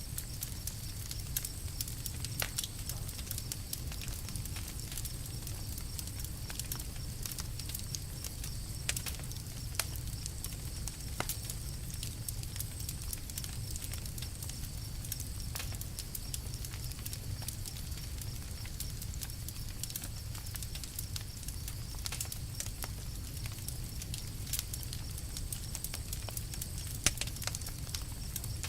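Campfire crackling: scattered sharp pops and snaps, one louder snap near the end, over a steady low rumble.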